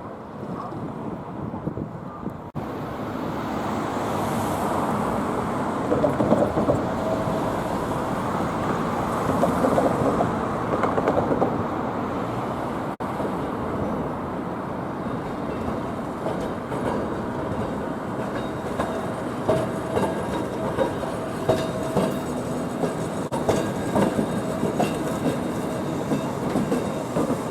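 Fukui Railway streetcar running on its tracks, wheels clacking over the rail joints, with a faint steady whine. The sound changes abruptly twice, about two and a half and thirteen seconds in.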